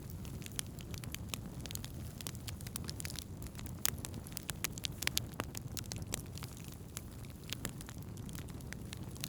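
Wood campfire burning, crackling and popping irregularly over a steady low rumble of the flames.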